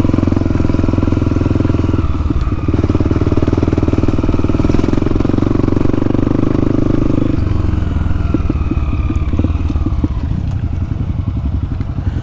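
Dirt bike engine running steadily under way, easing to lower revs about seven seconds in, with a few short clicks and knocks after that.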